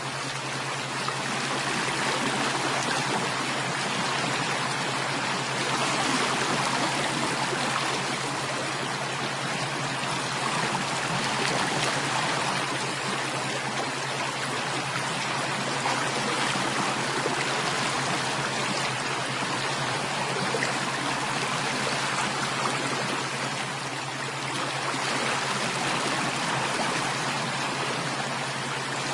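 Flowing stream water running steadily, a continuous rushing and trickling with gentle swells in level.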